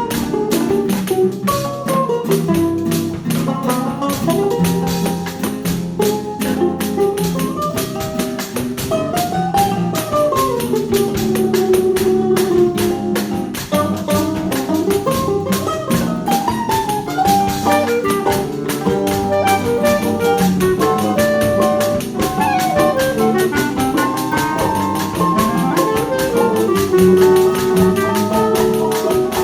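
A choro ensemble playing an instrumental piece: a melody line weaving up and down over a busy, steady rhythmic accompaniment.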